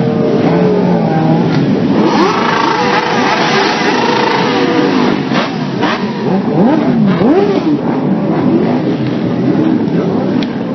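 Car engines revving, several at once, with pitches rising and falling throughout.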